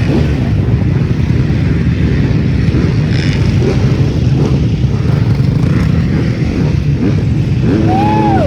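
Dirt bike engines running steadily, with a short tone rising and falling in pitch near the end.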